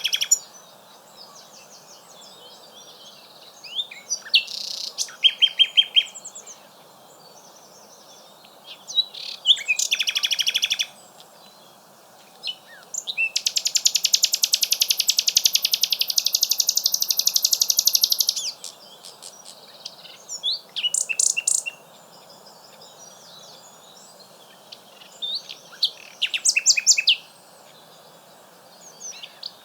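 Common nightingale singing in separate phrases of fast repeated notes and trills, with short pauses between them. Near the middle, one rapid trill runs for about five seconds.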